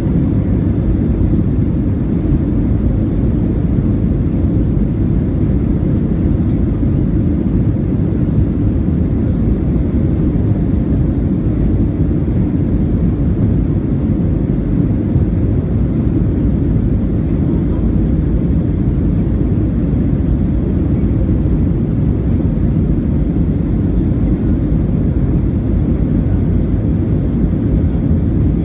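Steady roar of a Boeing 737-700's CFM56 jet engines and rushing air heard inside the passenger cabin: a deep, even rumble with a faint steady hum above it.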